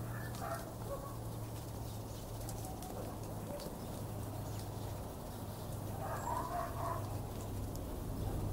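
Outdoor ambience: a steady low hum with two short bird calls, one at the very start and one about six seconds in, and faint scattered ticks.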